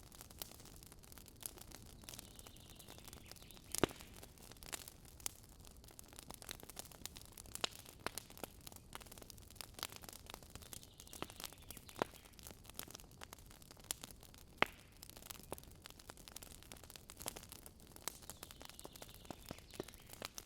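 Wood campfire crackling, with irregular sharp pops over a low background; two louder pops come about four seconds in and near fifteen seconds.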